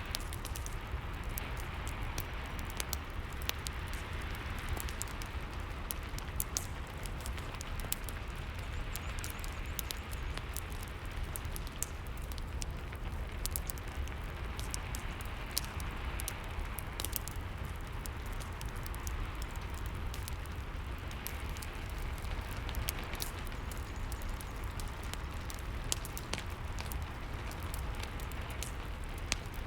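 Ambient rain and fireplace sound: a steady hiss of rain under a wood fire crackling, with many small sharp pops at irregular intervals.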